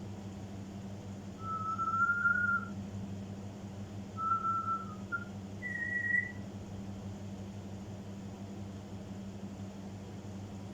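African grey parrot whistling three clear notes, the first slightly rising, the last higher in pitch, over a steady low hum.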